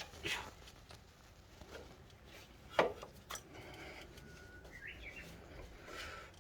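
A few sharp clicks and knocks, the loudest a little under three seconds in, with a short bird chirp about two seconds later.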